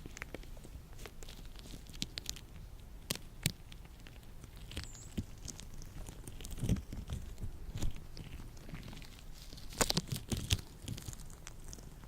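Latex-gloved hands rubbing and stretching close to the microphone: soft scrapes with scattered small snaps and crackles, and louder clusters of snaps past the middle and again toward the end.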